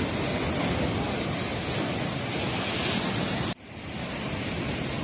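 Heavy surf of a storm-churned sea breaking, with wind, as a dense steady rush. It cuts off abruptly about three and a half seconds in and picks up again a little quieter.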